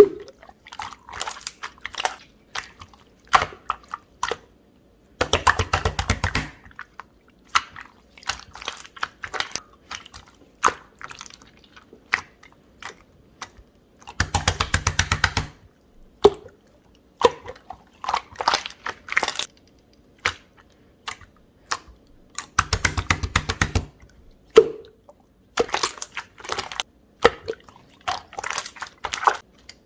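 Pink clear jelly-textured slime being squished and poked by hand, giving sticky clicks and small pops. Three times it breaks into a rapid run of clicks lasting about a second and a half.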